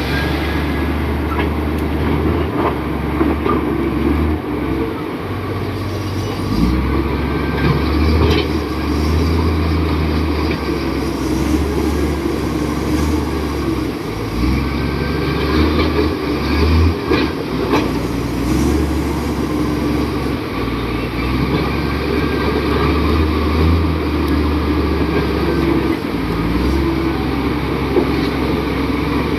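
Komatsu D58 bulldozer's diesel engine running, its note shifting up and down with load, with occasional metallic clanks.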